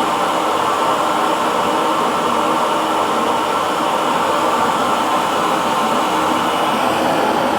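Electric hair dryer running steadily: a continuous blowing noise with a faint motor hum.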